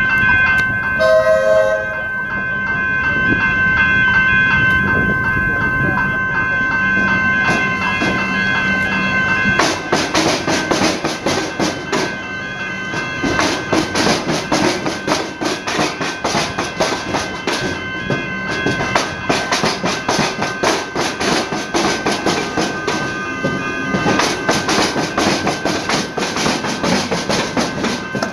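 Electric suburban train passing over the tram-and-railway crossing. A steady high whine runs through the first part; from about ten seconds in the wheels bang and clatter over the crossing in rapid irregular knocks.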